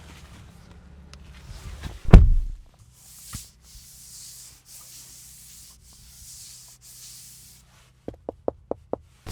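Handling sounds from a 2026 Honda Passport TrailSport: one heavy low thump about two seconds in, then a run of soft hissing pulses about a second apart over a faint steady hum, and near the end five quick, evenly spaced clicks.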